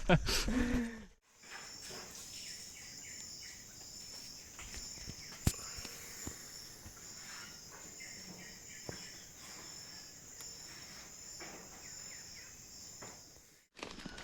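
Rainforest insect chorus: a steady, high, pulsing trill from many insects. A few faint clicks are heard, with one sharp tick about five seconds in.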